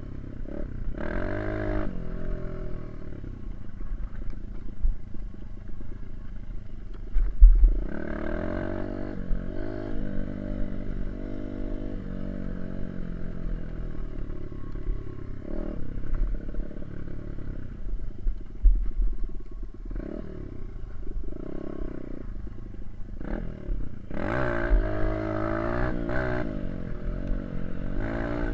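Small dirt bike engine running under way, its revs rising and falling repeatedly as the throttle is worked, with wind buffeting the microphone in low thumps.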